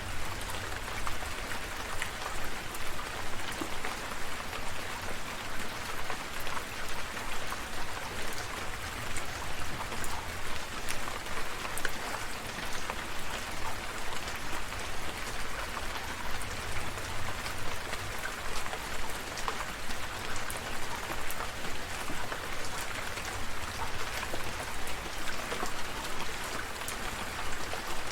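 Steady rain falling, with many separate drop hits heard through an even hiss and a low rumble underneath.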